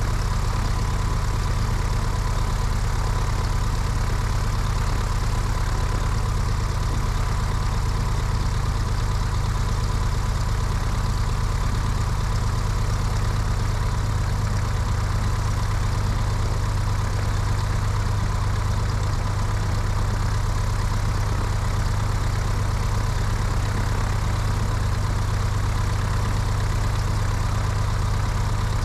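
Cessna 172's piston engine and propeller running at a steady speed, heard from a wing-mounted camera with steady wind rushing over the microphone.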